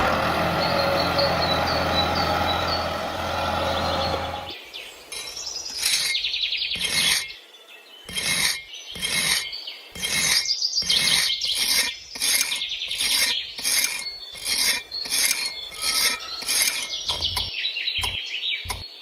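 A steady motor-like hum for about the first four seconds, then a long series of rasping, scraping strokes, roughly one to two a second.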